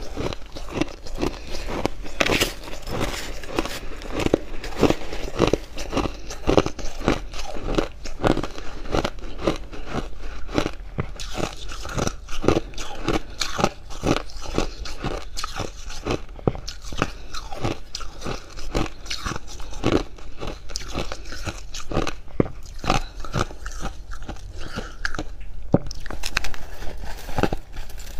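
A person biting and chewing fluffy freezer frost close to the microphone: dry crunching, many crunches a second in a dense, unbroken run.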